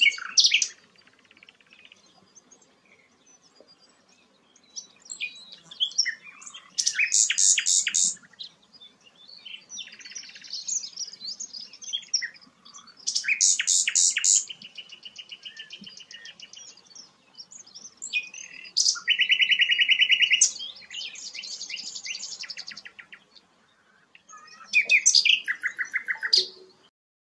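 A songbird singing in bursts of varied, rapid trilled phrases with short pauses between them. The song stops just before the end.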